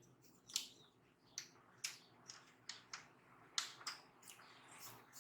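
About ten short, sharp clicks and light taps at uneven intervals, from laptop parts being handled and fitted together during reassembly.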